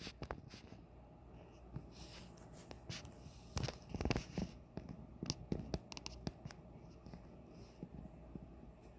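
Faint, scattered rustling and light scratchy ticks of movement close to the microphone, with no bird calls.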